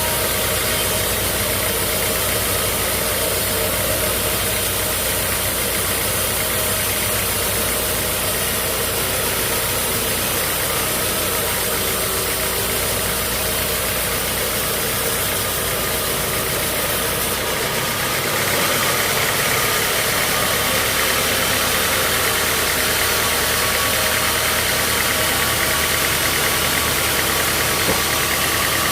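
Sawmill machinery running steadily with a continuous engine-like drone; about eighteen seconds in the tone changes and gets slightly louder.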